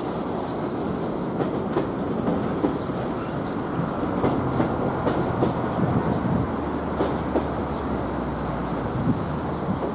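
Railway coaches rolling past below on parallel tracks, their steel wheels clattering and knocking over the rails with a steady rumble and a low hum underneath.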